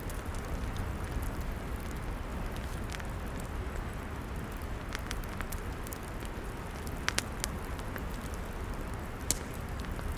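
Log fire crackling, with a handful of sharp pops scattered through it over a steady low rush.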